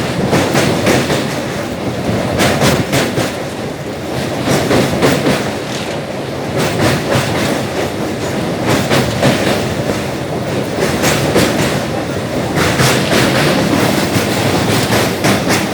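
Passenger train running, heard from on board: a steady rumble with the wheels clattering over rail joints in groups of clicks every few seconds.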